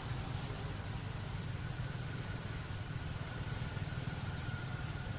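A steady low engine hum, like a motor idling, running evenly throughout.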